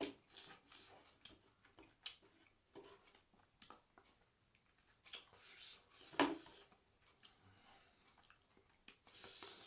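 Close-up sounds of a person eating: chewing and mouth noises with scattered small clicks, and a sharper knock about six seconds in.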